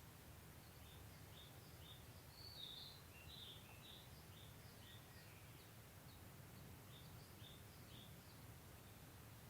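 A small songbird chirping a quick run of short, high notes, some falling in pitch, about two or three a second, pausing briefly before the end. Beneath it is a faint, steady low rumble.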